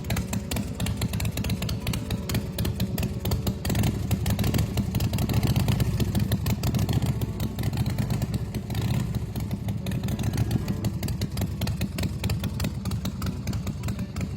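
Custom chopper's 111-cubic-inch S&S V-twin engine running with a steady, rapid beat. It runs a little harder for a few seconds starting about four seconds in, then settles back.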